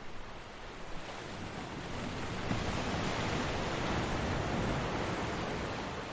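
Ocean surf breaking on a beach: a steady rush of water that swells into a louder wash about two and a half seconds in and eases slightly near the end.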